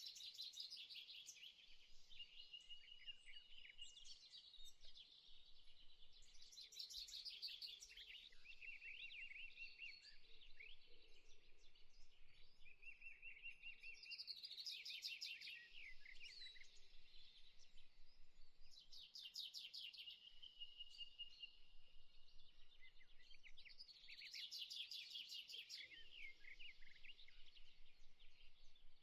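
Faint birdsong: bursts of quick high chirps and trills every few seconds, with shorter steady trilled notes between them.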